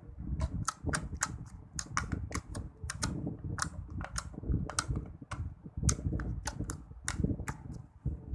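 Fingers poking and squeezing slime, making a quick, irregular run of sharp clicking pops, about three or four a second, over a low squelching.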